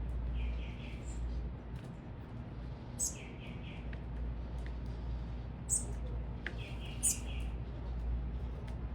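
Small birds chirping: a few short, sharp, high chirps, and three times a quick run of about four notes, over a steady low rumble.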